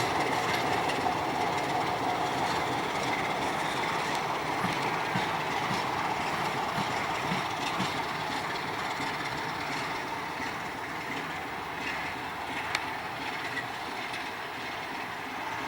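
Freight train wagons rolling past on the rails: a steady rumble and wheel noise that slowly fades, with a single sharp click about three-quarters of the way through.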